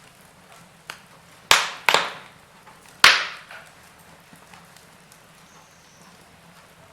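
Log fire burning in a fireplace: sharp crackles and pops, four within the first three seconds with the loudest about three seconds in, then only faint crackling.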